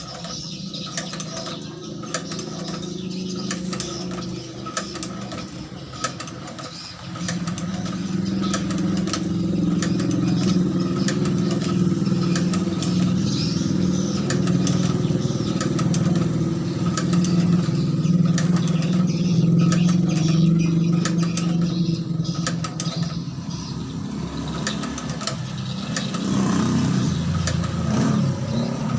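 Small engine running a shoe-sole stitching machine, with a steady low hum and many sharp clicks from the mechanism; it runs harder from about seven seconds in and eases off near the end.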